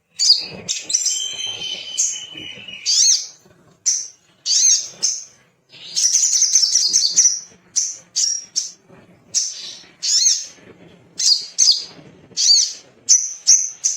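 A sogok ontong (sogon) songbird singing a rapid series of short, high, looping chirps and trills, with a longer unbroken trill about six seconds in.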